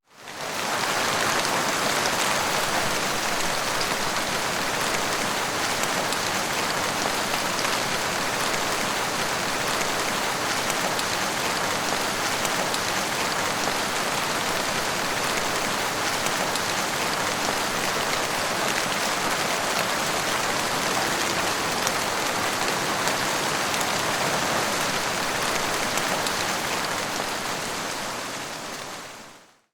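Heavy rain falling steadily, a dense, even hiss of countless drops. It fades in at the start and fades out near the end, with no thunder heard.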